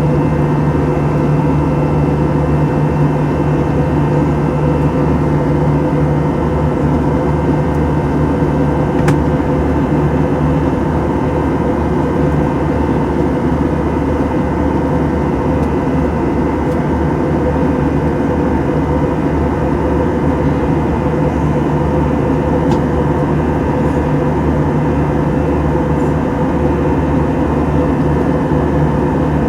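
Steady cabin drone of an Airbus A321 in flight: engine hum and rushing air, with several constant tones and no change in level.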